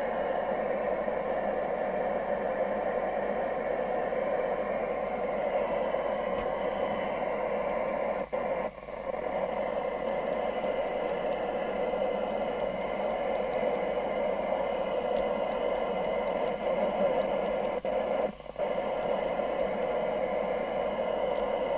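FM CB radio receiver hissing through its speaker with the squelch open, a weak distant signal buried in the noise. The hiss drops out briefly twice.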